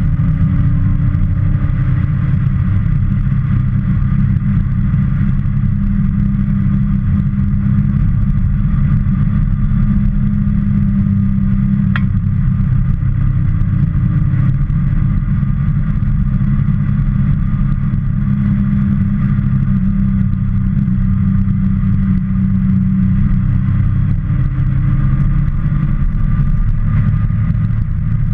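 Motorcycle engine running steadily on the road, its note drifting up and down a little as the revs change, with a brief sharp tick about halfway through.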